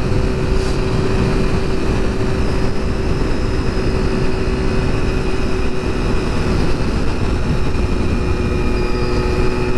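Honda road motorcycle under way at a steady speed: the engine runs at an unchanging pitch under heavy wind rush on the microphone.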